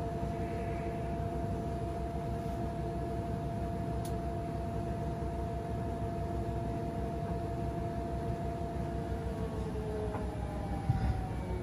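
Washing machine spinning: a steady motor whine over the rumble of the drum, the pitch starting to fall near the end as the spin slows, with a brief knock just before the end.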